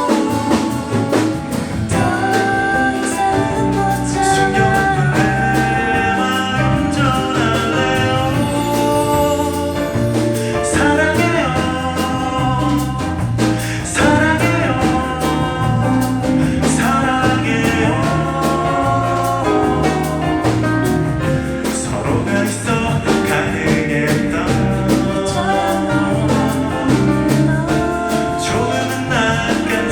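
A singer performing a song with guitar accompaniment, the vocal melody carrying over a steady backing throughout.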